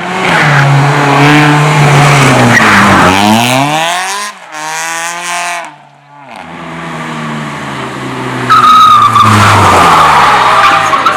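Race car engine revving hard, its pitch rising and falling, with tyres skidding and squealing. A lull comes about halfway, then the engine builds again and a loud, steady tyre squeal starts near the end.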